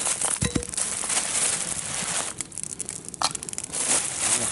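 Campfire burning with a dense run of crackles and pops, along with rustling close by.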